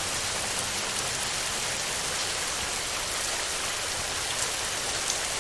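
Steady heavy rain drumming on a metal roof: an even hiss with the odd louder drop ticking through.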